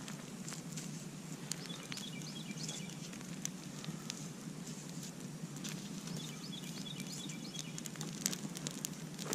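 Campfire crackling: irregular sharp pops and snaps over a steady hiss, with short bursts of faint high chirping in the background several times.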